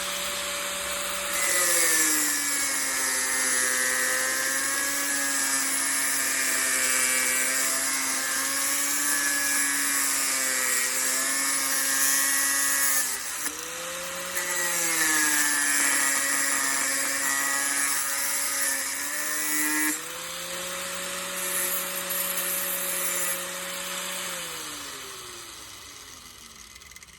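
Electric angle grinder with a cut-off wheel cutting sheet-steel floor-pan patches: the motor whine drops in pitch under load while the wheel hisses through the metal in three long cuts, with brief free-spinning gaps between them. Near the end the tool is switched off and the whine falls away as it spins down.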